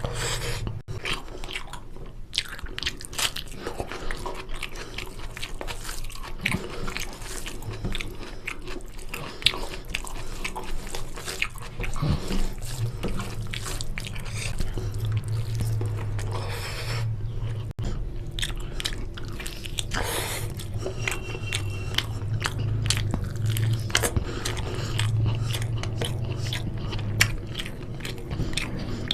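Close-miked eating sounds: a person biting and chewing chicken curry and rice, with irregular wet smacks and small crunches. A steady low hum lies underneath.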